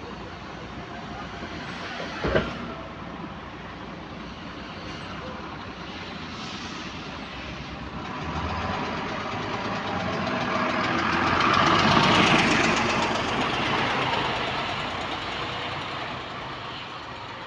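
Bus engine running under way, with a repetitive ticking that speeds up and slows with the engine and is heard only while the throttle is pressed. A single loud knock comes about two seconds in, and the noise swells to its loudest near the middle before easing off.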